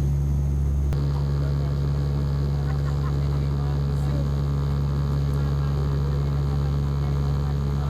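Steady low drone of an airplane in flight, heard from inside the cabin. Its tone shifts slightly about a second in.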